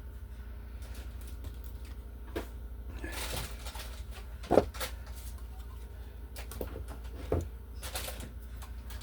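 Scattered clicks, knocks and rustles of hands working electrical wires up through a wall opening for a new outlet box, with one sharp knock about halfway through and a smaller one later, over a steady low hum.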